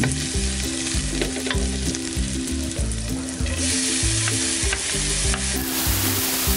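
Onion and garlic sizzling in hot oil in a metal wok, stirred with a wooden spatula. The sizzle turns louder and brighter about three and a half seconds in as grated carrot is added to the pan. Soft background music plays underneath.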